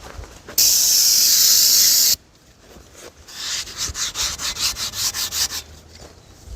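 Aerosol carb cleaner sprayed in one steady hiss of about a second and a half, then a couple of seconds of quick back-and-forth scrubbing, about five strokes a second.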